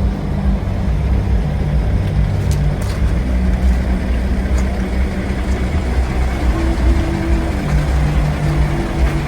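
1964 Scania Vabis L56 truck's diesel engine running steadily with a low drone.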